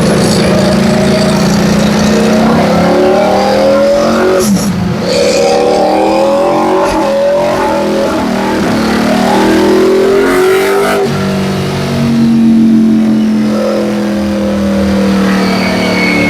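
2023 Ducati Panigale V4 SP2's V4 engine breathing through a full titanium Akrapovič exhaust, run hard on a dyno: loud, with the engine note rising in long pulls. The note breaks off sharply about four and a half seconds in and again about eleven seconds in, then settles into a steadier, lower note that slowly drops.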